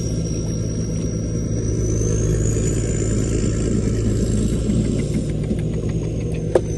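Engine running steadily with a low hum, over a thin high whine that rises about two seconds in and falls back after about five seconds. A short sharp sound comes near the end.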